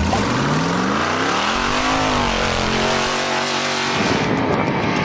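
A motorcycle engine revving up, its pitch rising over about two seconds and then holding steady. About four seconds in, it gives way to electric guitar music.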